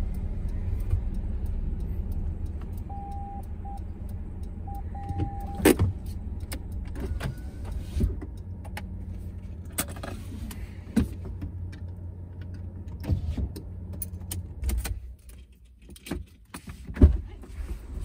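Proton Saga car's engine running slowly, heard from inside the cabin, with scattered clicks and knocks and a few short beeps; the engine rumble stops about fifteen seconds in, followed by a few clicks and one loud knock near the end.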